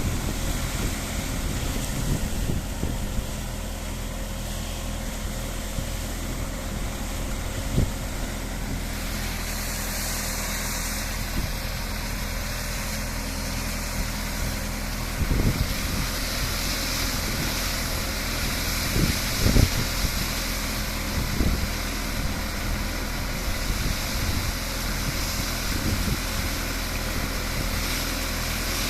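Tractor engine running steadily, powering a tractor-mounted orchard brush sweeper, with a few short knocks now and then.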